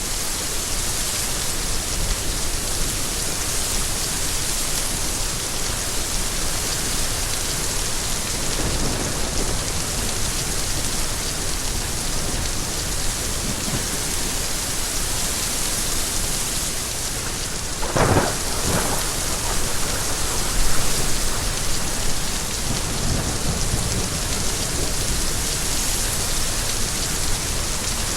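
Steady rain falling, with thunder: a faint low rumble about a third of the way in, then a sharp crack about two-thirds in followed by rolling rumbles.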